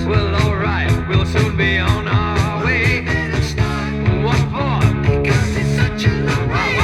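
1975 rock and roll record playing an instrumental stretch: a steady drum beat and bass under a lead melody that bends and wavers in pitch.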